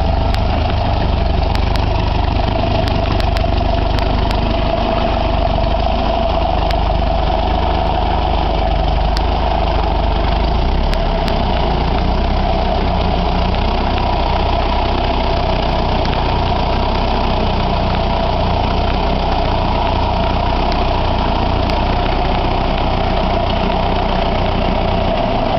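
Ferguson TEF 20 tractor's four-cylinder diesel engine running steadily.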